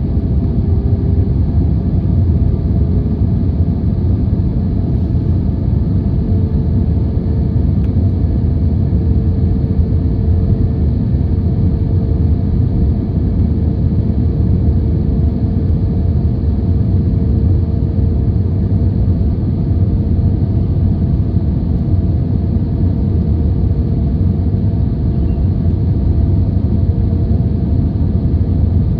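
Boeing 737-800 jet noise: a steady low rumble with a steady engine hum over it, and a slightly higher hum tone coming in about six seconds in.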